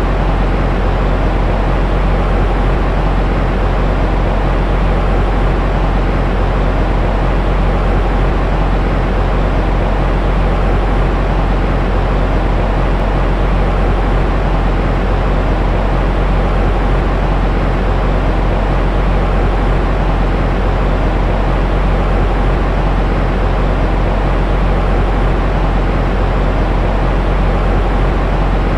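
Steady, unbroken rushing noise from a baby-sleep white-noise track, heavy in the deep bass like a low rumble, with little hiss on top.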